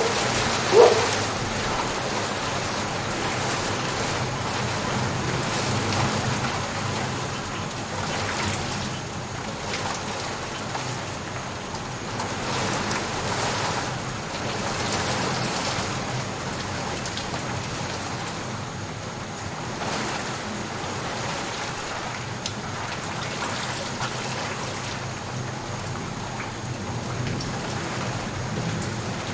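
Steady, even rainfall hissing on surfaces. A single short, loud sound cuts through about a second in.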